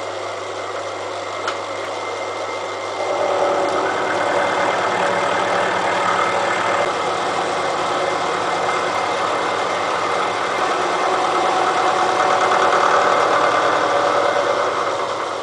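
Elliott Omnimill 00 milling machine running, its cutter taking a 15 thou (0.015 in) cut across the face of a steel railway-rail anvil. The rough cutting noise comes in about three seconds in, on top of the machine's steady running, and eases off near the end as the cut finishes.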